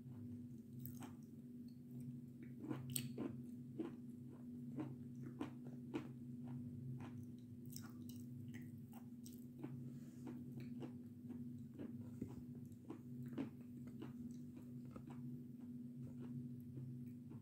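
Close-up chewing of a crunchy food, with irregular crisp crunches and clicks between the teeth over a faint steady hum.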